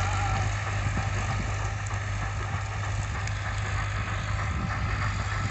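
Massey Ferguson 246 tractor's diesel engine running steadily with a constant low drone.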